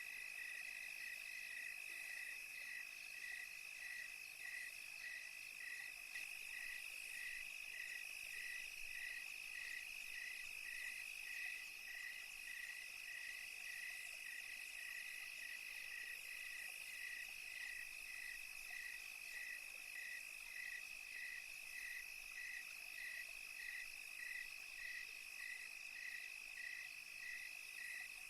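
Night chorus of crickets: a continuous high trill under a regular chirp repeating about twice a second, steady throughout.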